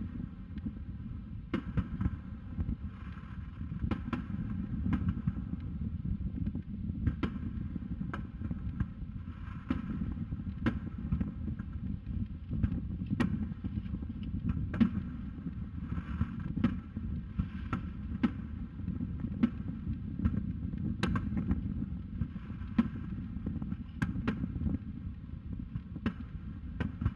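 Aerial firework shells bursting some distance away across a lake: a string of sharp booms at irregular intervals, roughly one every second or two, over a steady low rumble.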